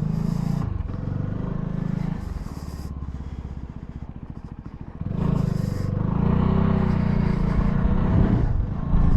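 CFMoto 300SR single-cylinder motorcycle engine running as the bike rides off. It drops to a quieter, evenly pulsing note about two seconds in, then gets louder again about five seconds in, its pitch shifting up and down as it pulls away.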